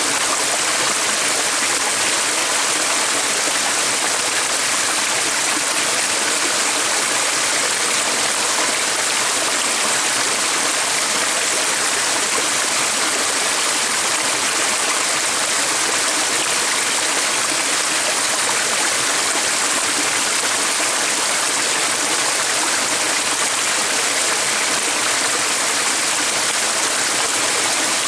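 A stream's water running steadily: an even, unbroken rush with no breaks.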